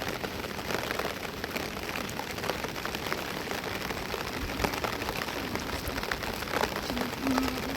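Rain falling steadily, with many individual drops striking close by as sharp ticks.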